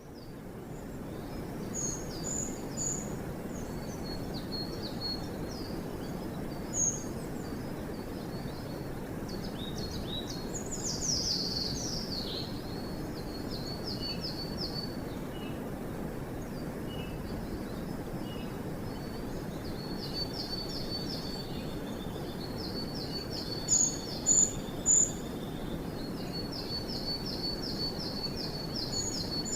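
Several small forest songbirds singing in turn: short high thin notes, quick trills of repeated notes and a few rising phrases, over a steady low rushing background noise. A run of three loud high notes comes about 24 seconds in.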